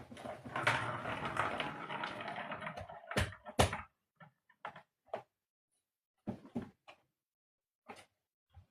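Cats playing with a toy: about three seconds of rustling and scrabbling, then two sharp knocks and a few scattered lighter taps.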